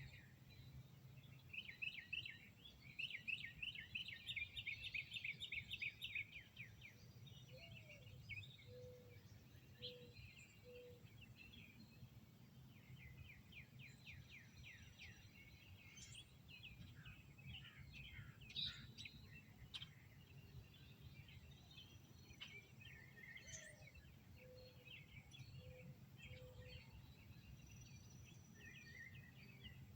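Songbirds chirping and trilling, faint, with a dense run of rapid chirps in the first few seconds and another burst around the middle. A low three-note call sounds twice, and a faint steady low hum lies underneath.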